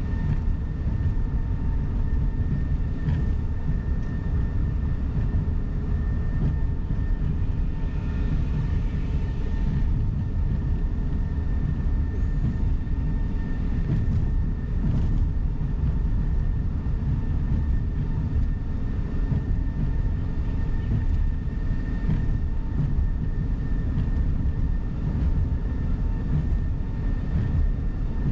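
Cabin noise of a tour coach driving on the road: a steady low engine and road rumble, with a faint steady whine above it.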